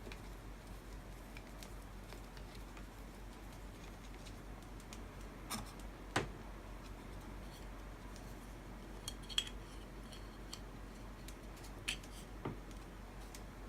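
A few sharp, widely spaced metallic clicks and clinks of tools and small engine parts being handled during motorcycle engine assembly, over a low steady hum. The loudest click comes about six seconds in, with others around nine and twelve seconds.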